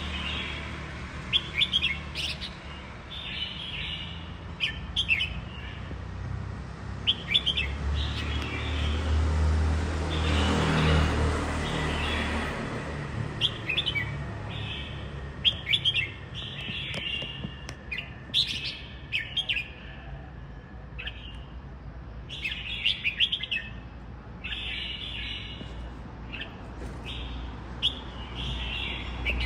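A caged songbird chirping and singing in short repeated phrases throughout, over a steady low rumble that swells for a few seconds about a third of the way in.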